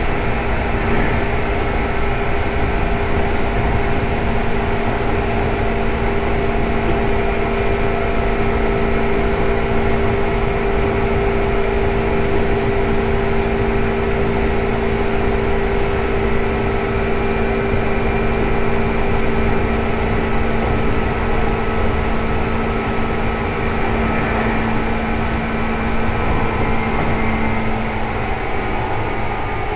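Seibu 2000 series electric train running on the line, heard from inside the car: a steady rumble of wheels on rail with several steady motor whine tones, which shift a little near the end.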